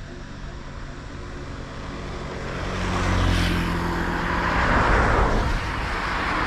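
A motor vehicle engine running, with road and wind noise, growing steadily louder over the first few seconds and then holding.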